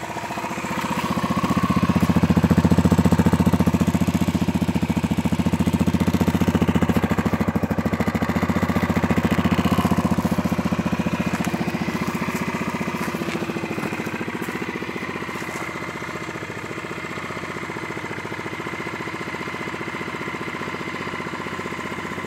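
Yamaha XT125X's single-cylinder four-stroke engine running cold on a winter start. It grows louder over the first two seconds, holds there for several seconds, then eases down and settles to a lower, steady idle.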